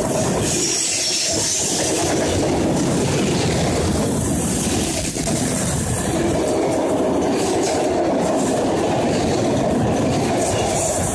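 Autorack freight cars rolling past at trackside: the steady, loud noise of steel wheels running on the rails.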